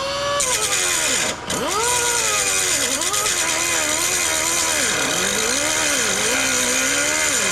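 Power tool cutting through steel. A steady high hiss runs throughout, and the motor's pitch drops and rises again about once a second as the tool bogs under load and frees up.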